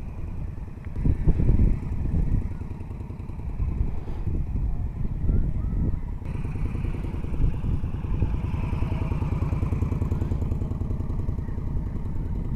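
Motorcycle engine running at low speed through slow parking-lot maneuvering drills. The throttle surges about a second in, then the revs rise and fall.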